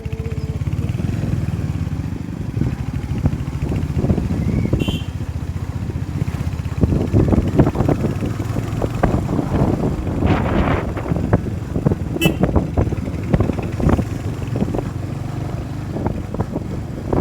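Motorcycle running along the road, a steady low engine rumble, with two brief high-pitched chirps, about five and twelve seconds in.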